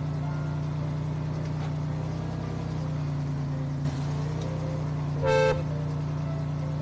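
Remote-control toy construction truck running with a steady low engine-like hum, and one short horn beep about five seconds in.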